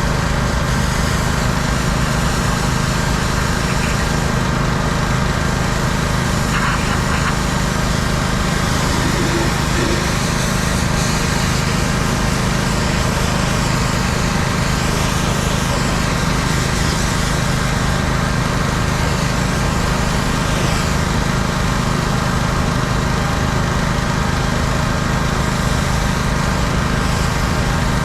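Small gasoline engine of a pressure washer running steadily at constant speed, with the hiss of the high-pressure water spray over it.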